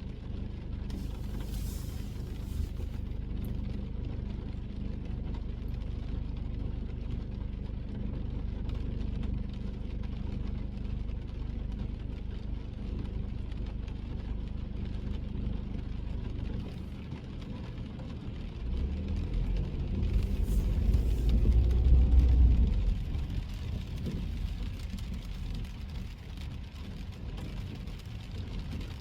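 Car driving on a rain-wet road: steady low engine and tyre rumble with a light hiss from the wet road surface. About two-thirds of the way in, a louder low rumble builds, peaks briefly and fades.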